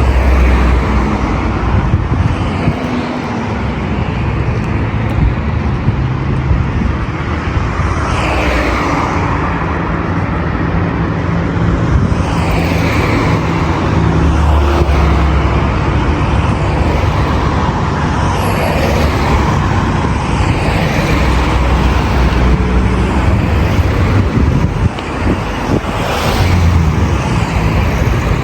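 Dense road traffic: a steady mix of car engines and tyre noise, with louder swells as single vehicles pass close by, about a third of the way in, near halfway and near the end.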